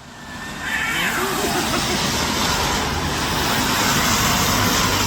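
Cats yowling at each other in a drawn-out, wavering wail, the warning sound of a standoff before a fight, over a steady hiss of background noise that starts about half a second in.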